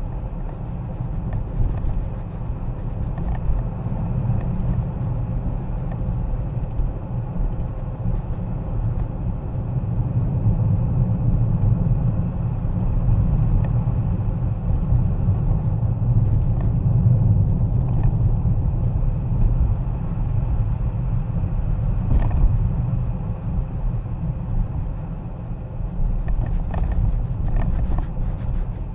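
Car being driven: a steady low rumble of engine and tyres, swelling slightly partway through.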